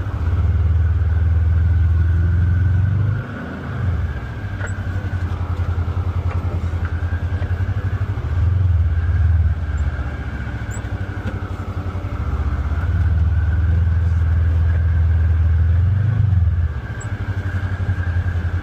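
Polaris Xpedition UTV engine heard from on board, throttle applied in several surges and eased off in between while the vehicle is worked slowly over steep, rocky trail, with a steady whine above the engine note.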